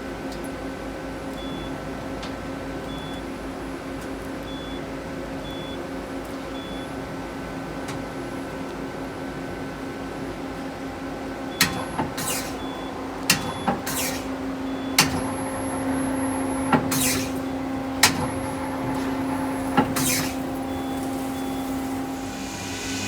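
Okuma Crown 762S CNC lathe running under power with a steady machine hum. About halfway through, a series of sharp mechanical clacks and knocks, roughly eight over eight seconds, and a hiss starts near the end.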